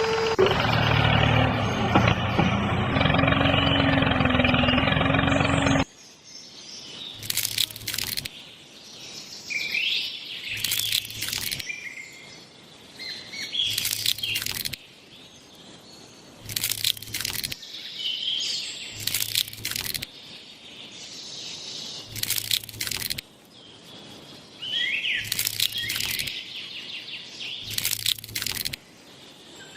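A motor runs steadily with a few held tones and cuts off suddenly about six seconds in. After that, birds chirp, with short noisy bursts repeating about every three seconds.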